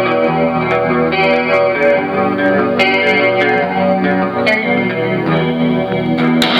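Electric guitar played through an effects pedal, picking a melodic line of ringing single notes that change about every half second. A strummed chord comes in right at the end.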